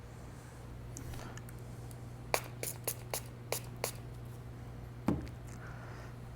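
Glass-cleaner spray bottle squirted six times in quick succession, short hissy sprays over about a second and a half, followed by a single knock about five seconds in.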